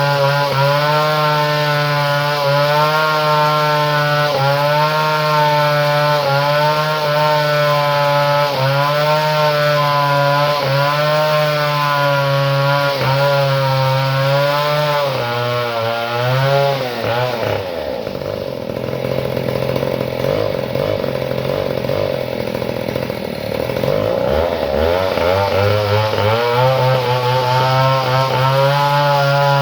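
Two-stroke chainsaw engine running, its speed rising and falling in a steady waver about once a second. About two-thirds of the way through it drops to a low speed for several seconds, then picks back up.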